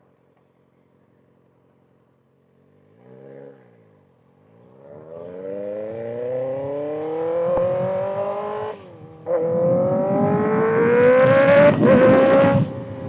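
Kawasaki ZX-6R inline-four with a loud exhaust, near silent at first, then one short rev about three seconds in. It then pulls away under hard acceleration, its pitch rising through the gear, with an upshift about nine seconds in and a second climb to another shift near the end. The bike is in rain mode, where the rider finds the power comes in late.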